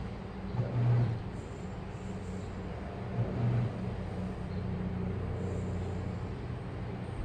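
Washing machine running: a steady motor hum with a louder low surge about a second in and again about three seconds in.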